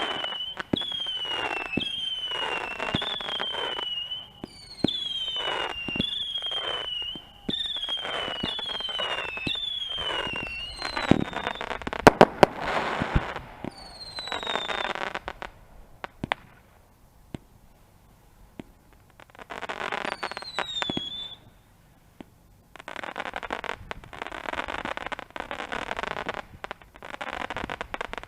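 Fireworks going off: a run of whistling shots, each a short falling whistle, about one a second over crackle. A few sharp bangs come near the middle, then a short lull and one more pair of whistles, and dense crackling fills the last few seconds.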